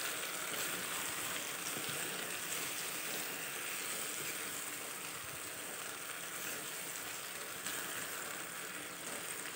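Chopped mustard greens and ash gourd chunks sizzling steadily in a cast-iron kadai while being stirred with a wooden spatula, as the greens begin to give up their water.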